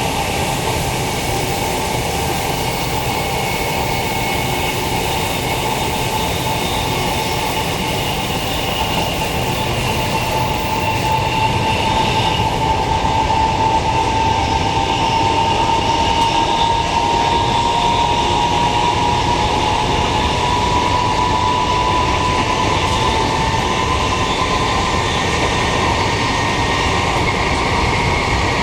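Queensland Rail electric multiple unit running along the line: a steady rail rumble with a whine that rises slowly in pitch as the train gathers speed, growing a little louder about ten seconds in.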